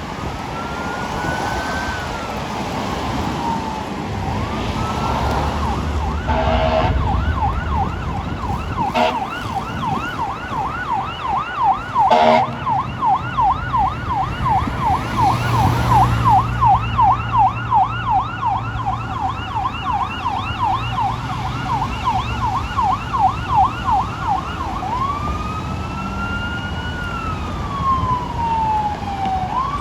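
Fire engine siren: a slow rising and falling wail that switches a few seconds in to a fast yelp, about three cycles a second, then goes back to the wail near the end. A few short horn blasts cut in, over the truck's low engine rumble.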